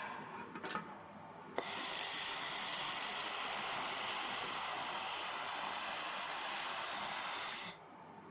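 Handheld 1 kW fiber laser welding machine firing. A click about one and a half seconds in starts a steady hiss with a high, even whine, which runs evenly for about six seconds and then cuts off abruptly.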